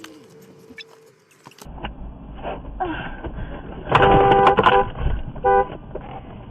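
Vehicle road noise, then a car horn honking for most of a second about four seconds in, and a short second honk about a second later.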